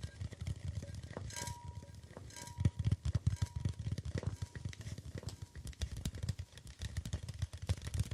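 Rapid, continuous tapping on objects, dozens of light taps a second. In the first half a few of the strikes leave a faint high ringing note, about once a second.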